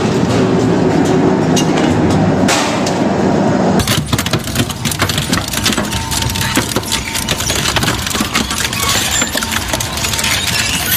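A crushing or shredding machine breaking up material: dense, heavy grinding noise that changes abruptly about four seconds in to a rapid, irregular run of cracks and snaps as pieces break apart.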